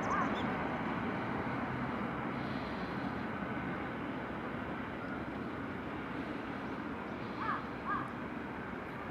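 A landing airplane's engine noise, a steady broad roar that slowly fades away. Short bird calls come at the start and twice close together near the end.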